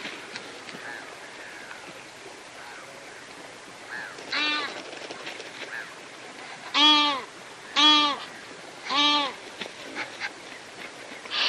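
A bird calling from the water: one call about four seconds in, then three louder calls about a second apart, each short and pitched.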